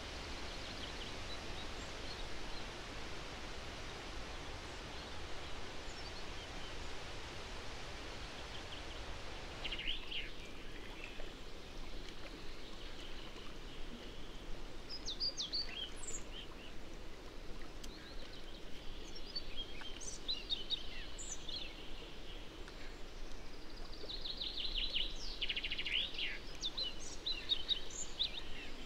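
Songbirds calling and singing in short chirps and trills over a steady outdoor hiss, starting about ten seconds in and busiest near the end.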